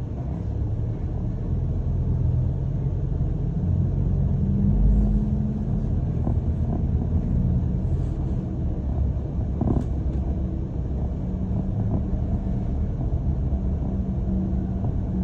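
A London bus in motion, heard from inside: a steady low rumble of engine and road noise, with a low hum that rises and falls in pitch as the bus speeds up and slows. A couple of faint knocks come near the middle.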